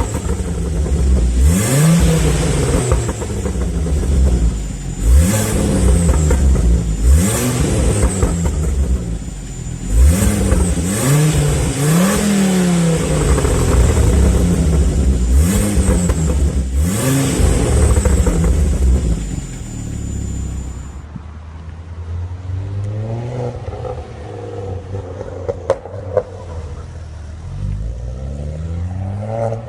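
Ford Focus ST engine and exhaust revved in quick repeated blips, about one every two seconds, each climbing and falling in pitch, with a sharp crack at the top of several of them. About two-thirds of the way through it cuts to another Focus ST revving lower and quieter.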